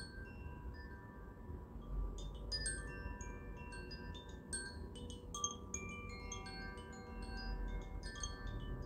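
Wind chimes ringing: many light, irregular strikes whose ringing tones overlap, over a low rumble.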